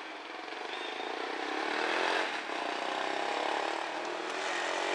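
A motor vehicle engine running, growing louder over the first two seconds and then holding steady.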